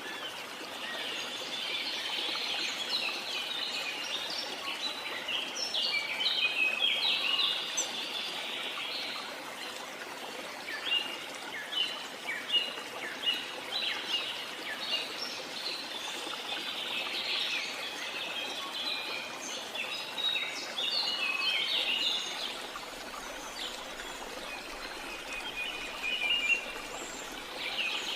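Many birds chirping in quick, short notes over the steady rush of a jungle waterfall.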